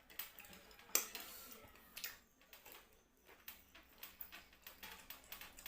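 Close-up eating sounds: a person chewing and sucking on fish head in gulai curry, with irregular smacking clicks, the loudest about a second in.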